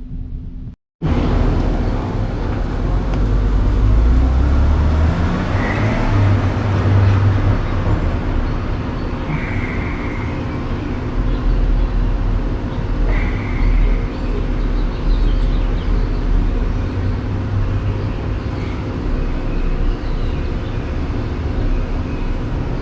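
Motor vehicle engine running steadily, a loud low rumble with traffic noise. It starts abruptly after a brief silence about a second in.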